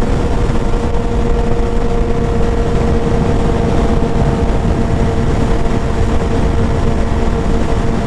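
Suzuki GSX-R600's inline-four engine held at steady revs while cruising: one constant engine tone that doesn't rise or fall, under heavy wind rumble on the rider's microphone.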